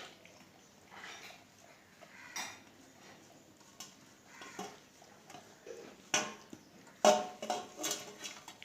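A Saint Bernard eating from its food bowl: irregular clinks and clatters of the dish, the loudest a few knocks near the end.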